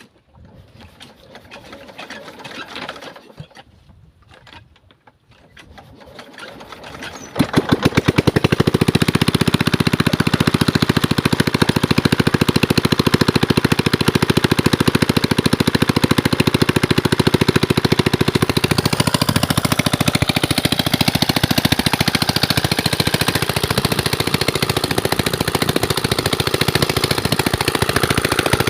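A 16 hp single-cylinder Chinese diesel pump engine starting. After about seven seconds of quieter, irregular handling sounds it suddenly catches, then runs loud and steady with a fast, even knock.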